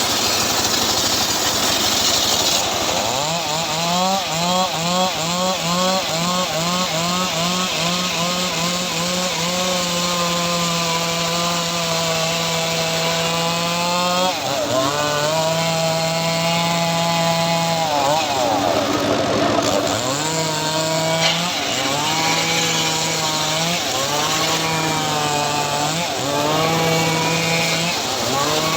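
Engine of a homemade sawmill running under load as its saw cuts teak. The pitch wobbles rapidly at first, then repeatedly sags and recovers every couple of seconds as the blade bites into the wood.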